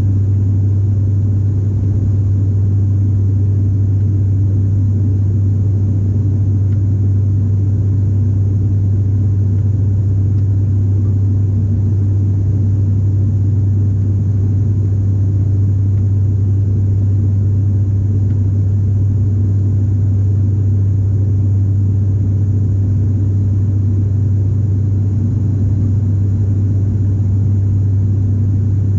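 Airliner cabin noise: a steady, loud drone of the aircraft's engines and propellers with one deep constant hum, unchanging throughout, as of the plane flying at steady power.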